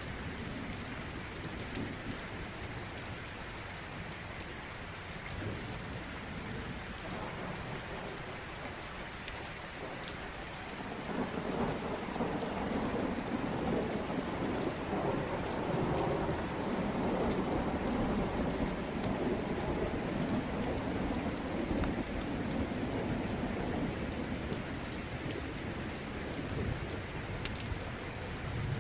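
Steady rain falling, with a long low roll of thunder that builds about a third of the way in and fades out over the next dozen seconds.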